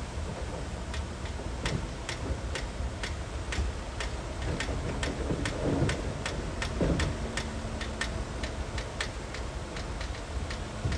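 Crawler bulldozer working: a steady low diesel rumble with evenly spaced clanking clicks about twice a second, typical of its track links. There are two louder rough surges in the middle.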